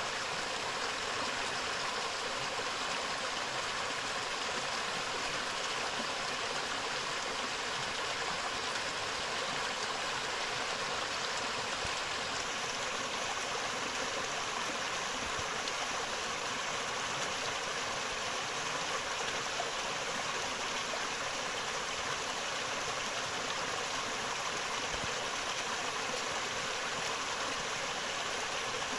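A forest river flowing, a steady rush of running water.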